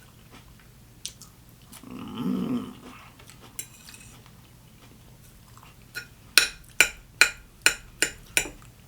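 Eating sounds from a bowl of egg salad: a short hummed grunt about two seconds in, then a quick run of about six sharp clicks, roughly two a second, near the end.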